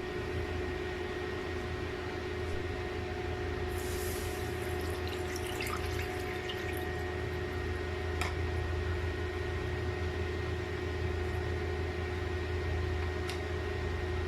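Kitchen preparation over a steady low electrical hum: a brief splash and trickle of water with light clinks about four to seven seconds in, then two single sharp clicks later on.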